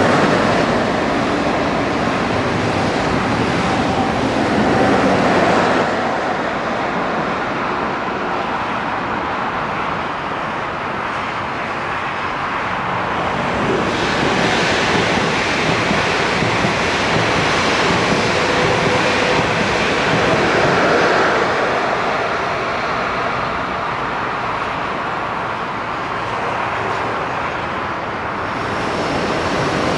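Electric passenger trains running on a multi-track mainline: a steady rush of wheels on rail. It is loud at first as one train passes close, eases after a few seconds, and builds again about halfway through as a double-deck train approaches, rising near the end.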